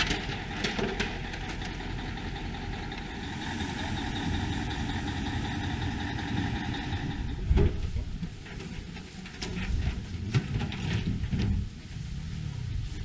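A large engine running steadily, with a steady high whine over it for a few seconds and a single knock about seven and a half seconds in.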